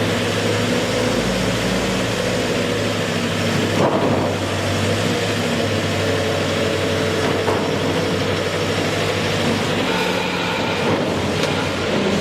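Heavy construction machinery engine running steadily, with a brief louder surge about four seconds in.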